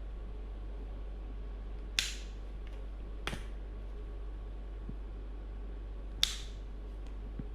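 Three sharp clicks, about two, three and six seconds in, over a steady low electrical hum.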